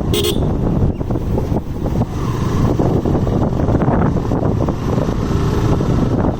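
Motorcycle riding along the road: the engine running steadily under heavy wind buffeting on the microphone, with a short sharp high-pitched noise just after the start.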